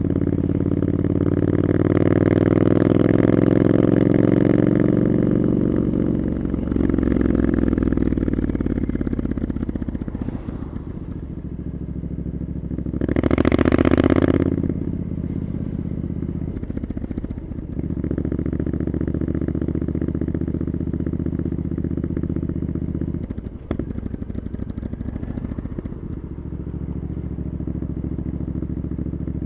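Triumph Scrambler 900's parallel-twin engine through Arrow aftermarket exhausts, ridden in traffic. It pulls up through the revs in the first few seconds, then eases off and runs steadily at low revs for long stretches. About halfway there is a loud rushing noise lasting a second or two, and near the end a single knock.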